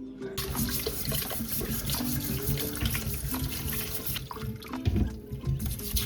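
Running water, a steady rushing hiss, under soft background music with held notes and a low beat.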